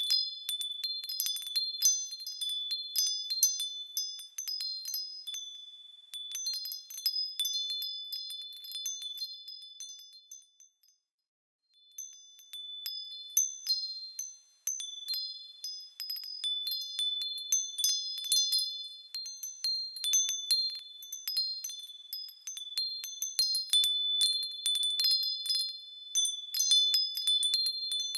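Small high-pitched bells jingling and ringing as they swing, many overlapping strikes like a wind chime. About ten seconds in the ringing fades out to silence, then starts again a second or so later.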